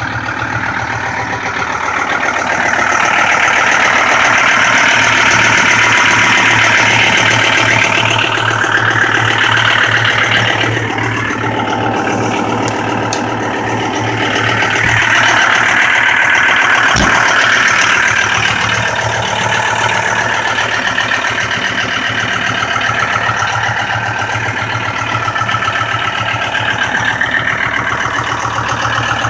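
John Deere 5325 tractor's diesel engine running steadily, growing louder for a few seconds at a time twice, with a single sharp click about two-thirds of the way through.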